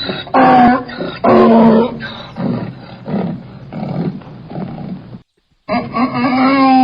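Donkey braying: loud see-sawing hee-haw calls that trail off into shorter, fading gasps. After a brief dropout near the end, a new bray begins.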